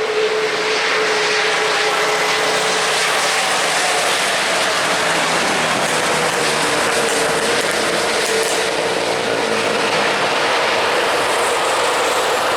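Jet airliner engines heard close by, a loud steady noise with a single sustained tone running through it.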